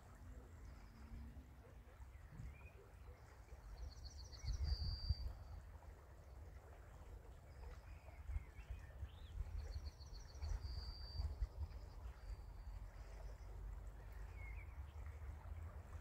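Faint outdoor ambience: a low steady rumble, with a small songbird singing a short high trilled phrase twice, about four and ten seconds in, and a few faint chirps between.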